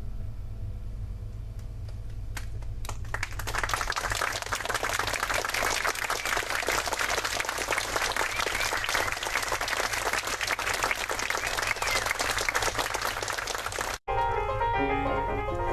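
A crowd clapping, starting about three seconds in and going on steadily for about ten seconds, then cut off suddenly as piano music begins.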